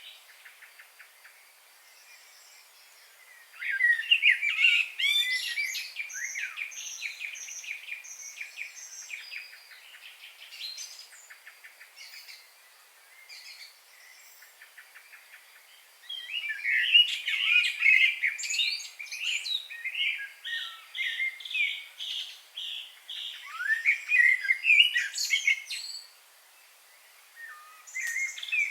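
Songbirds singing in two lively bouts of varied chirps, trills and quick repeated notes, with quieter stretches of sparse calls between them.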